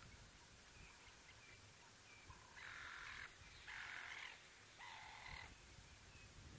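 A bird gives three harsh cawing calls, each about half a second long and a little over a second apart, starting a couple of seconds in. Faint short chirps of small birds can be heard around them.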